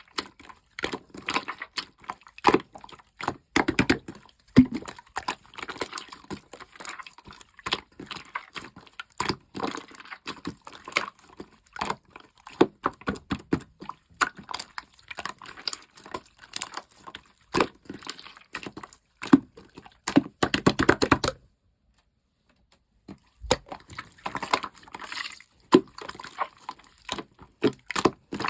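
Clear slime being squished and worked by hand: a dense run of wet clicks, crackles and small pops, broken by a pause of about two seconds a little past the middle.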